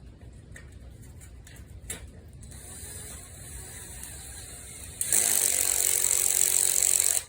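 A power driver runs a bolt in: a loud steady run of about two seconds, starting about five seconds in and cutting off suddenly, after a few light clicks of parts being handled.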